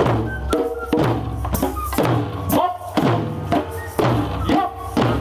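Wadaiko (Japanese taiko drums) struck together by a group in a steady beat, about two strokes a second, each stroke ringing on.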